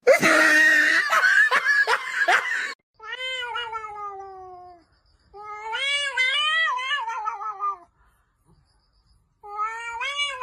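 A domestic cat making three long, drawn-out meows, each wavering up and down in pitch, after a few seconds of rustling noise with sharp clicks.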